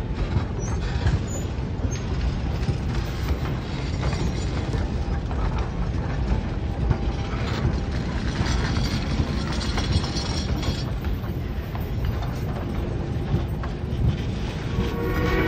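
Narrow-gauge passenger coaches rolling slowly past, their wheels and trucks rumbling, clicking and rattling over the rails. Near the end a steam locomotive's whistle begins to blow, a steady chord of several tones.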